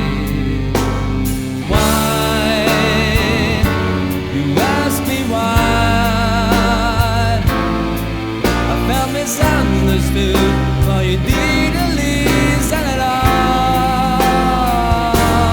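Pop-rock band music: drums keeping a steady beat under bass, with a held, wavering melody line carried over the top.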